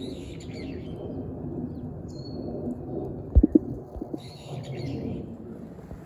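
Outdoor ambience with a steady low rumble, a single brief high whistled bird note about two seconds in, and two sharp knocks a second or so later, the loudest sounds.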